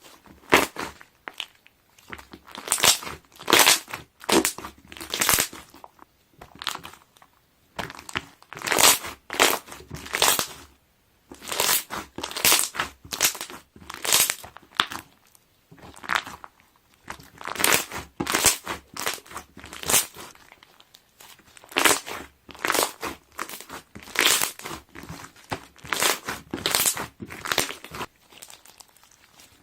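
Slime being squeezed and pressed by hand, its trapped air bubbles popping and crackling in quick, irregular bursts with short pauses between squeezes.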